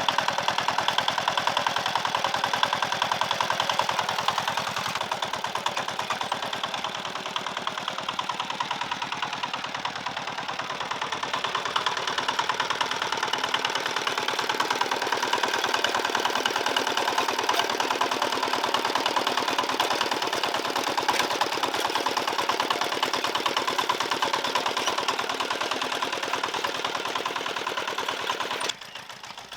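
Small engine running steadily with rapid, even firing pulses. It drops abruptly in level shortly before the end.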